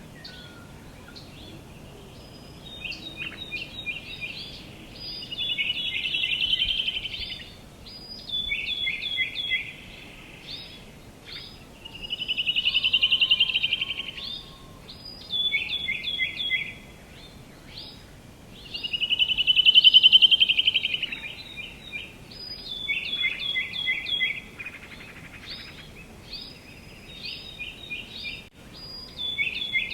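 Songbirds singing: repeated phrases of quick, high, down-slurred notes, with a louder buzzy trill about every seven seconds, over a faint steady outdoor hiss.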